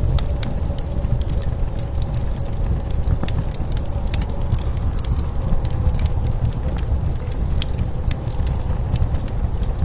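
Wood fire crackling with scattered sharp pops, over a steady low rumble of blizzard wind and a faint drifting whistle.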